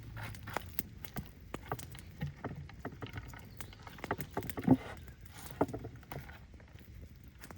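A series of irregular knocks and clicks at an uneven pace, the loudest a little past halfway.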